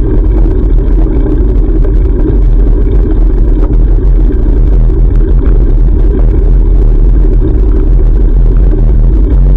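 Loud, steady low rumble of wind and road noise on a bike-mounted action camera's microphone while cycling, with car traffic mixed in.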